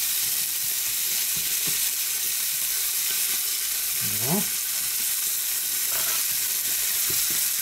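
Steak and sliced onions sizzling in hot oil in a ribbed grill pan: a steady frying hiss. A short voice sound cuts in briefly about four seconds in.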